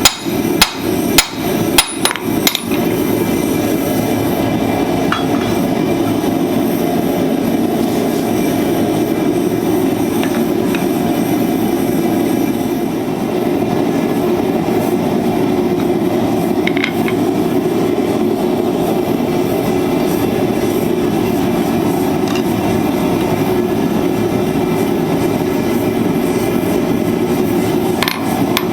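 Hand-hammer blows on hot steel at the anvil, about two a second, for the first two or three seconds. Then comes a long, steady rushing noise, the forge running. Hammering starts again near the end.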